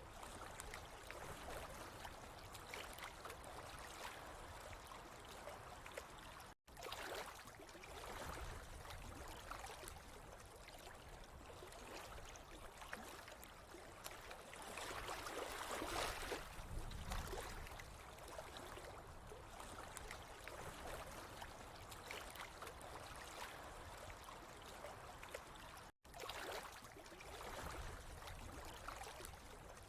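Faint, steady trickling and gurgling of flowing water. It cuts out completely for an instant twice, about a third of the way in and near the end.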